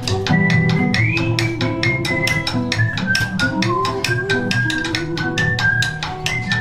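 Band playing an instrumental passage: plucked guitar and bass chords under a high gliding melody line, driven by a quick, steady clicking percussion beat.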